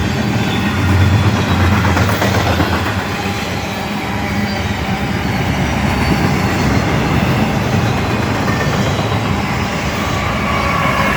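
Freight train cars rolling past at speed, a loud, steady rumble of steel wheels on the rails.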